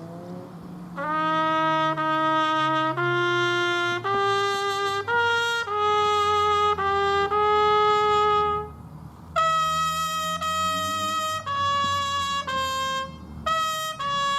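Solo trumpet playing a slow call of long, held single notes, with a brief break a little past halfway: a tribute call sounded during a minute of silence for fallen firefighters.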